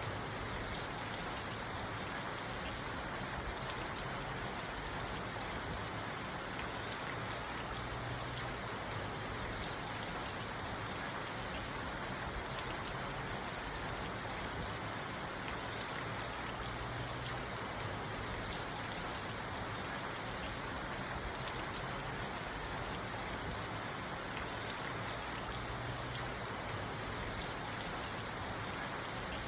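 Steady rain falling on a parked car, heard from inside the car: an even patter of drops with no thunder.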